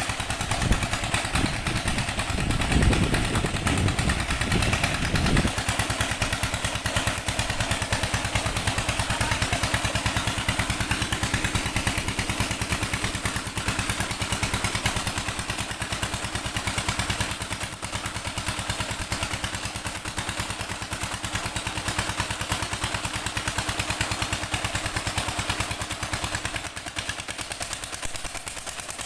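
Old 16-horsepower Petter diesel engine running steadily with rapid, even exhaust beats and a mechanical clatter, with heavier low thudding in roughly the first five seconds.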